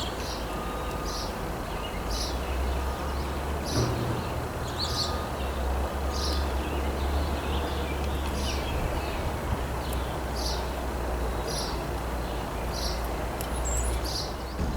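A bird calling over and over, one short high-pitched note about once a second, over a steady low rumble.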